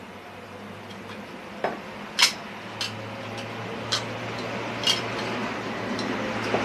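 A handful of sharp metallic clicks and clinks, the loudest about two seconds in, over a low steady hum and a noise that grows gradually louder.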